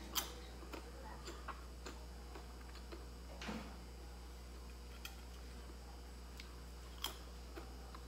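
Faint crunching from a mouthful of crispy fried cake (bánh chiên giòn) being bitten and chewed: one sharp crunch right at the start, then scattered irregular crisp clicks, with a longer crackle about three and a half seconds in.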